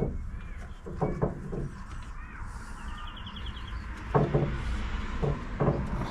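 Hand tools knocking and clunking against the engine while the old carburettor's nuts are worked loose, several separate knocks with a short quick run of clicks in the middle.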